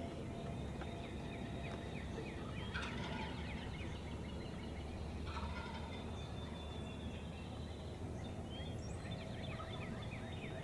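Wild turkey gobbler gobbling three times, each gobble a quick rattling run of notes, the bird coming in toward the hunters.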